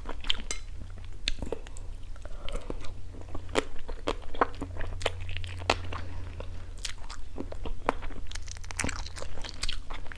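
Close-miked chewing of stir-fried frog legs: irregular sharp crunches as the small bones are bitten through, over a low steady hum.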